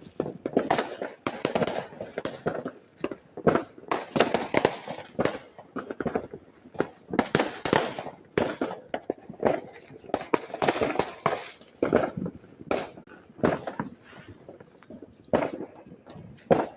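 Fireworks and firecrackers going off, a dense run of sharp, irregular bangs, several a second at times.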